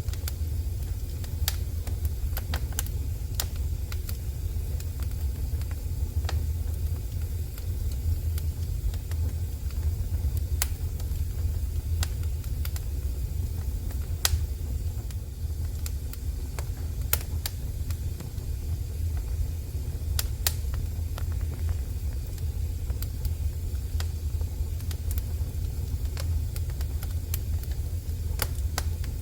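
Wood fire burning in a fireplace, crackling with sharp snaps and pops at irregular intervals over a steady low rumble.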